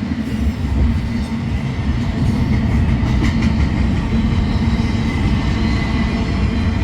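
Freight train rolling past: a loud, steady rumble of steel wheels on rail, with a faint steady high tone above it and occasional clicks.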